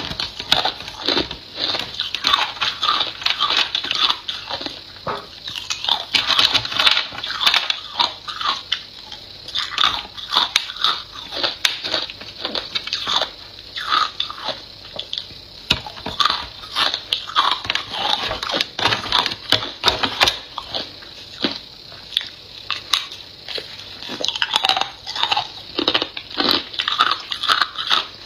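A person biting and chewing hard ice cubes and crushed ice close to the microphone: continuous irregular crunching and crackling of ice breaking between the teeth.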